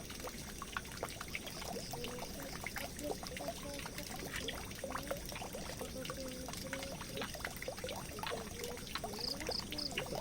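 Water pouring and trickling steadily down a drain, with many small splashes and drips.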